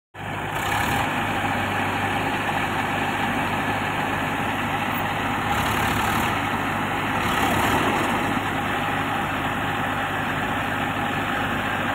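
Diesel engine of heavy machinery idling steadily, with three short rushes of higher hiss along the way.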